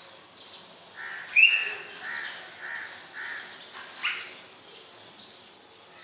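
A caged bird calling: starting about a second in, a series of about five short calls about half a second apart, the first higher and loudest, then one rising call near four seconds.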